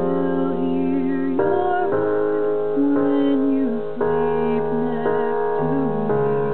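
Slow piano-ballad accompaniment of sustained keyboard chords that change every second or so, with a woman singing over it.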